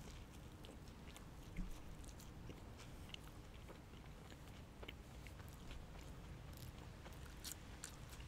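A person chewing food close to the microphone: faint, scattered wet mouth clicks and soft crunches, with one louder low thump about a second and a half in.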